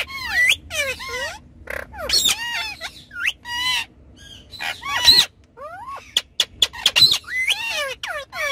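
Indian ringneck parakeets calling: a rapid string of short squawks and chirps, each swooping up and down in pitch, with sharp clicks between them.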